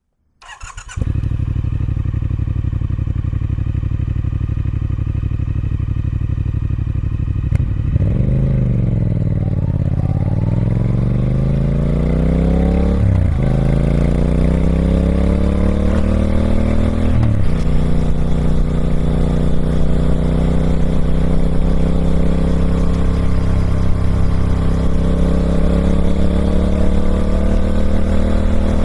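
Triumph Speed Twin 1200's parallel-twin engine on its stock exhaust, running at a steady speed for several seconds, then dipping and climbing in revs as it accelerates, with two gear changes a few seconds apart where the pitch drops suddenly, before settling into a steady, slowly rising drone.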